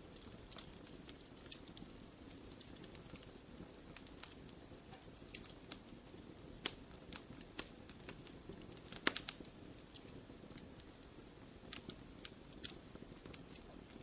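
Fire burning in a fireplace, crackling with irregular sharp pops over a low steady rumble of flames; the loudest pops come in a quick cluster about nine seconds in.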